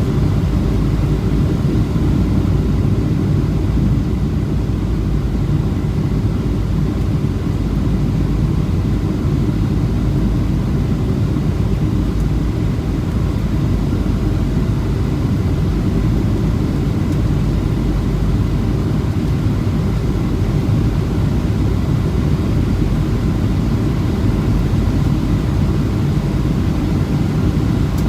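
Steady low rumble of a Boeing 737-700 in flight, heard from inside the aircraft: its CFM56-7B engines and airflow, with a few faint steady whines above the rumble.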